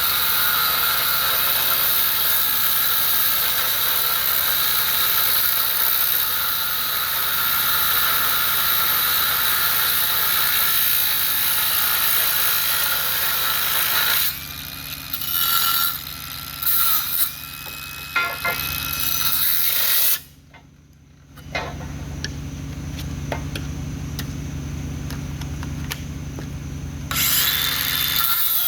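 A power tool running on metal, steady for a long stretch, then cutting in and out several times with its whine falling as it spins down. After a short pause it starts again near the end.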